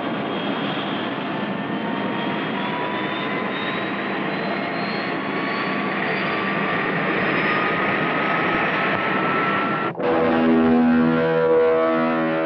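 Jet aircraft engine running with a whine that rises slowly in pitch, winding up toward full power for a steam catapult launch. About ten seconds in it cuts off suddenly and electric guitar music takes over.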